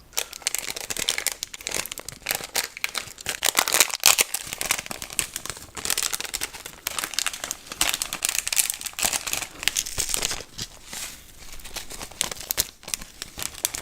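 Packaging being crinkled and crumpled in a dense, continuous run of fine crackles, with some tearing.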